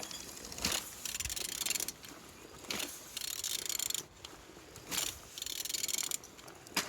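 Ratchet wrench turning the crankshaft of an Opel Z18XER 1.8 petrol engine over by hand: several bursts of rapid pawl clicking with short pauses between strokes. The engine turns over freely.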